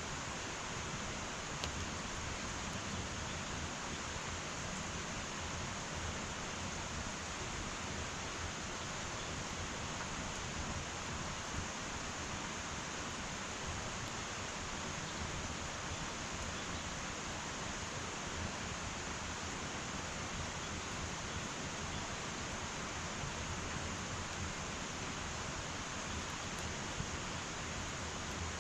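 Wood fire burning in an irori sunken hearth: a steady hiss with a few faint crackles.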